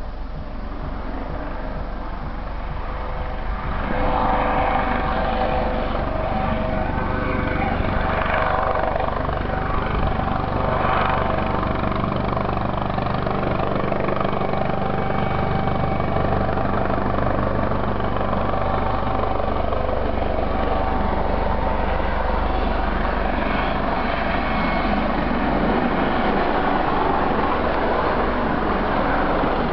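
Police helicopter hovering: steady rotor and turbine noise with a low rumble and a held whine. It grows louder and jumps in level about four seconds in.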